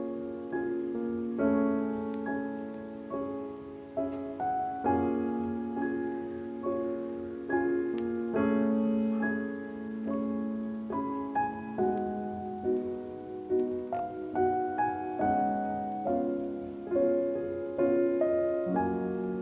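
Background piano music: a gentle, slow piece of single notes and chords that each ring and fade.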